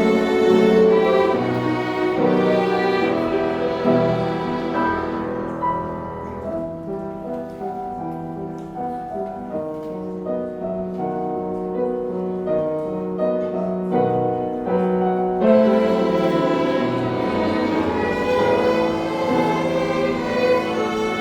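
String orchestra playing a hymn arrangement, violins and cellos bowing sustained melodic lines. About six seconds in the texture thins into a softer passage of separate held notes, and the fuller strings come back in about fifteen seconds in.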